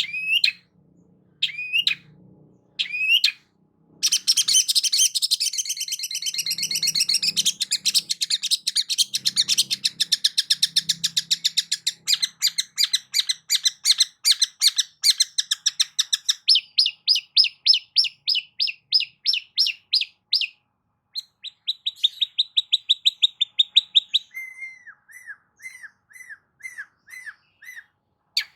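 Long-tailed shrike (cendet) singing: a few rising upslurred calls, then from about four seconds in a dense fast chatter, and then long runs of rapid repeated notes that change pitch from run to run. The song ends in a series of lower, falling notes.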